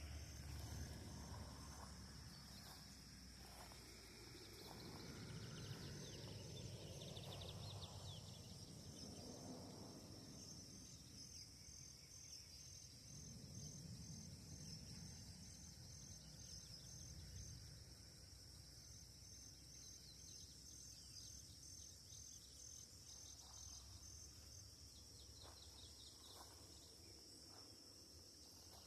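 Faint, steady high-pitched insect chirring, with a soft low rumble of wind on the microphone that swells and fades.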